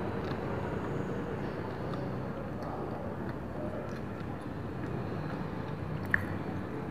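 Chewing of a soft white-bread peanut butter and jelly sandwich, with small mouth clicks, over a steady low background rumble. One sharp click comes about six seconds in.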